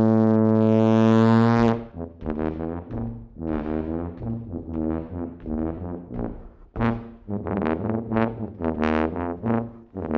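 Brass music: one long held low note that breaks off a couple of seconds in, then a tune of short separate notes.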